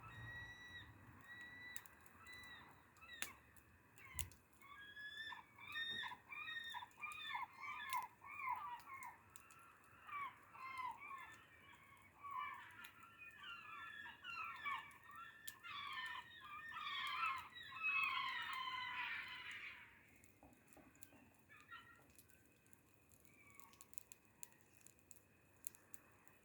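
A flock of birds calling: many short, overlapping pitched calls that grow denser and louder, then stop about twenty seconds in. Faint scattered clicks run underneath.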